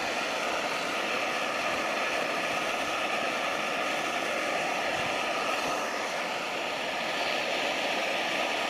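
MSR Pocket Rocket canister stove burning: a steady hiss from the gas burner.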